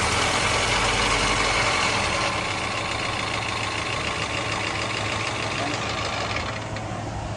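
Toyota Corolla GLI's engine idling steadily just after being started, with a steady low hum; it eases slightly near the end.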